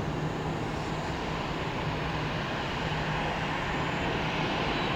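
Jet airliner engines at takeoff power, a steady rushing roar that grows slowly louder.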